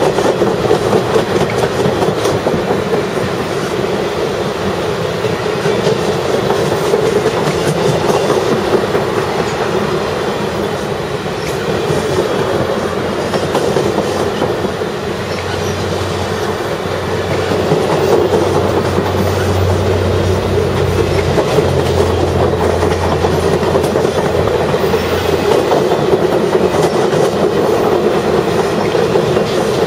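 Ringling Bros. and Barnum & Bailey circus train's passenger cars rolling steadily past, the wheels clicking over the rail joints. A low steady hum swells in about halfway through and fades again some ten seconds later.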